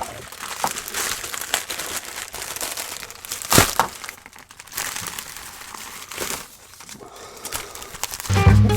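Packaging crinkling and rustling as a parts package is opened by hand, with a sharp snap about three and a half seconds in. Background music comes in just before the end.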